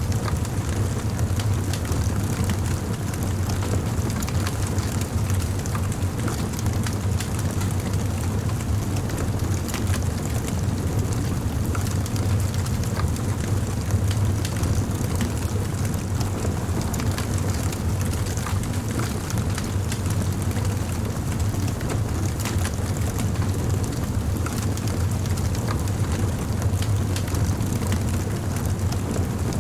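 Wood fire (bonfire) burning, with frequent small crackles and pops scattered over a constant low rumble.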